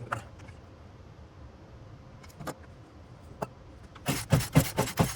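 Poulan Pro 42 cc two-stroke chainsaw being cranked by its pull-starter cord for a compression test, with the spark plug out and a gauge in its place: a quick run of about seven sharp strokes near the end, with a few light clicks before. The engine turns over without firing, and the oil just added to the cylinder has raised the reading, a sign of worn or stuck piston rings.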